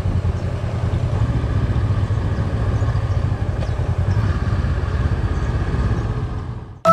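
Motorcycle engine running at a steady pace on the move, a low, evenly pulsing rumble under wind and road noise, fading out just before the end.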